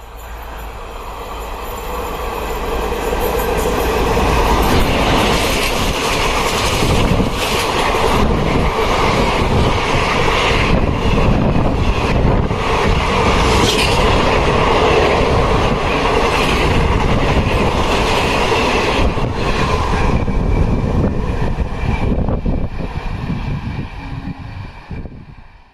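The Howrah–Prayagraj Rambag Vibhuti Express passenger train runs through a station at about 108 km/h. It builds from a distant rush to a loud, steady rumble with rapid clickety-clack of wheels over rail joints as the coaches pass, then fades near the end as the last coaches go by, before cutting off suddenly.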